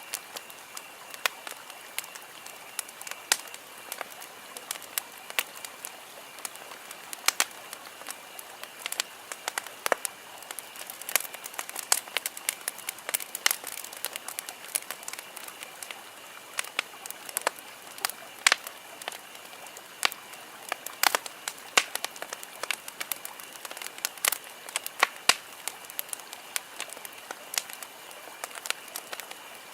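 Wood campfire burning, with frequent irregular sharp crackles and pops over a soft steady hiss. A faint, steady high-pitched tone runs underneath.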